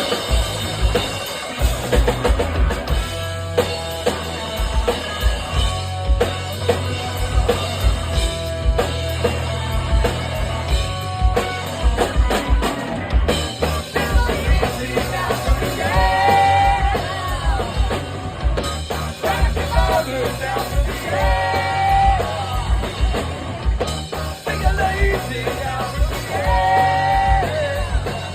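Live rock band playing: a full drum kit with a steady bass-drum beat under guitars and bass, with short sung or shouted phrases near the end.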